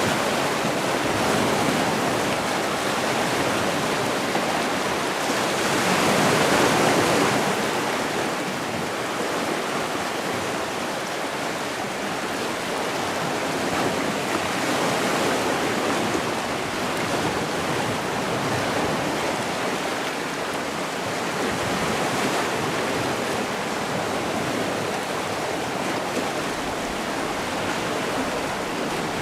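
Gentle sea surf: waves washing onto the shore as a steady rushing hiss, swelling once about six seconds in and ebbing gently after.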